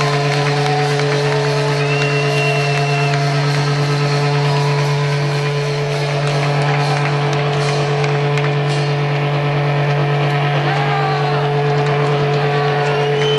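Electric guitar amplifier feedback and noise from a live rock band: a loud steady drone with high squealing whistles that rise, hold and fall away several times, heard through an audience cassette recording.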